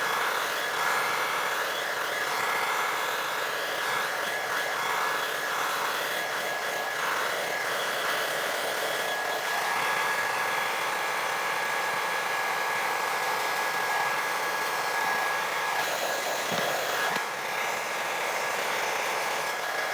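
Negative-ion blow dryer running steadily on its highest speed and heat setting: a rushing airflow with a thin, high, steady motor whine.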